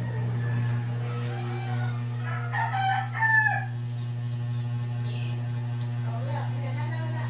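Steady low electrical hum of the repaired ceiling fan's motor running, with a rooster calling about two and a half seconds in.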